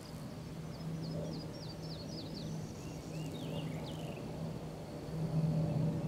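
A songbird singing a quick run of about eight short falling notes, then a few lower chirps, over a steady low hum.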